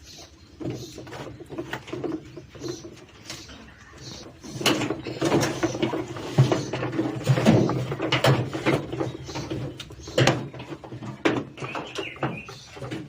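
Irregular knocks and clatter from a top-loading washing machine's drum assembly being handled as its suspension legs are lifted off. The knocking is loudest and thickest in the middle of the stretch.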